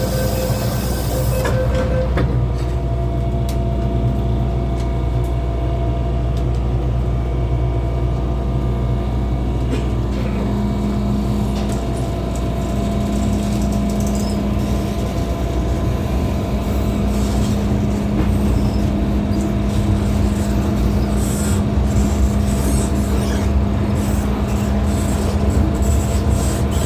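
MTR M-Train door-closing warning beeps ending about a second and a half in, then the train pulling away and running, heard from inside the car: a steady low rumble with several steady motor tones and occasional clicks from the track.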